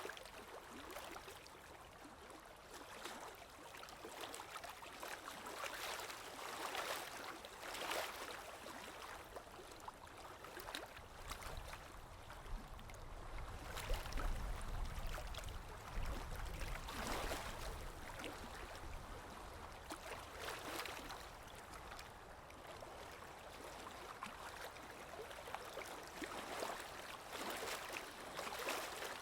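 Waves washing and splashing in an irregular rhythm, with a low rumble that swells in the middle.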